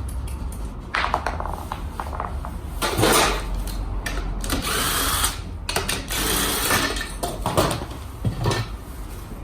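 Power tool running in several short, irregular bursts, typical of workshop work on a scooter's seized rear wheel.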